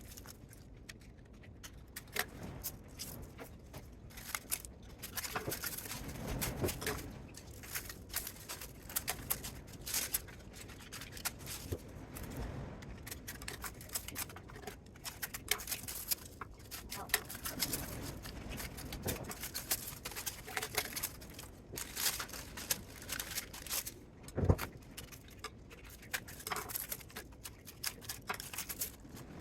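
Irregular clinks, rattles and scrapes of hand tools and small metal parts being handled while a welding power supply is dismantled for scrap, with one sharper knock near the end.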